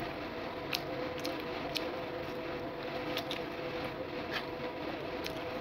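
Mouth noises of someone eating French fries: soft chewing with short wet clicks and smacks every second or so, over a steady hum in the background.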